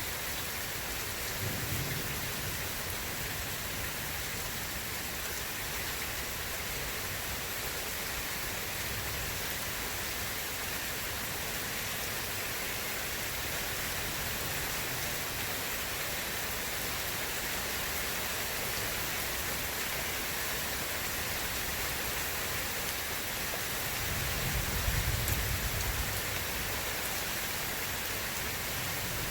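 Steady rain falling, with low thunder rumbling faintly about two seconds in and again, longer and louder, near the end.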